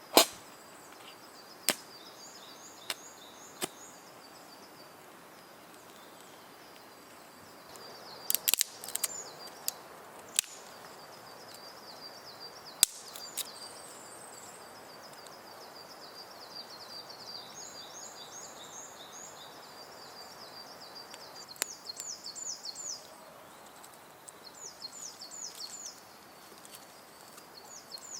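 Small songbirds singing in high, quick repeated trills over a faint steady hiss, with a dozen or so sharp cracks and pops scattered through, most of them in a cluster about a third of the way in.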